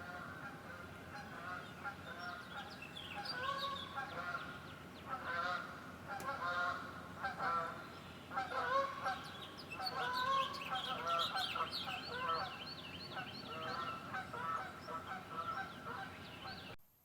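A flock of birds calling at once: many overlapping calls in a dense, continuous chorus that cuts off suddenly near the end.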